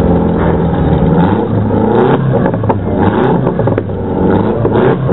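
Demolition derby car's engine running steadily, heard from inside the stripped car, with several sharp rattles and knocks from the battered body about two to four seconds in.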